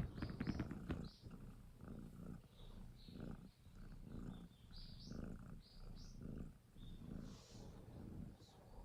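Young domestic cat purring close up, the low purr swelling and easing in a steady rhythm with its breaths.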